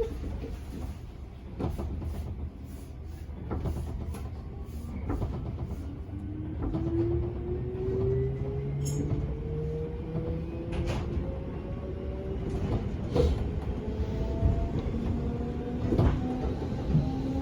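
Motor car of a JR 205 series 500-subseries electric train pulling away and gaining speed: a low rumble with occasional clicks of the wheels over rail joints, and from about a third of the way in, the traction motor and gear whine rising slowly in pitch as the train speeds up.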